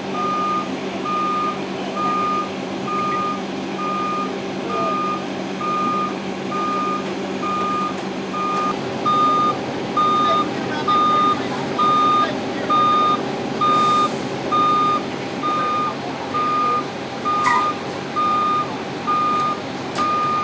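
A vehicle's reversing alarm beeping steadily, one tone about every three-quarters of a second, growing louder about halfway through, over a running engine.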